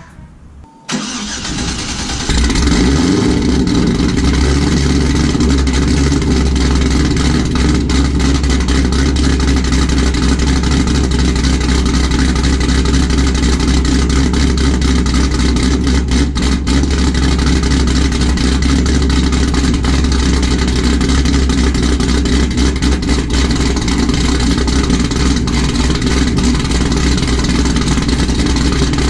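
Cadillac CTS-V's supercharged LSA V8, cammed and running through uncatted ARH headers, cold-started about a second in. It catches within about a second and a half, then idles loud and steady.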